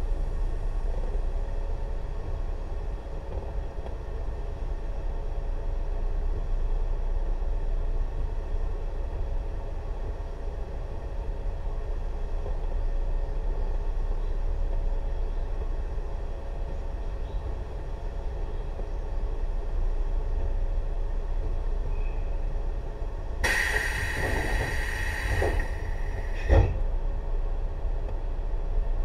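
Tobu 6050 series electric train standing still, its onboard equipment giving a steady low hum. Near the end a departure signal rings for about two seconds, followed by a single heavy thud.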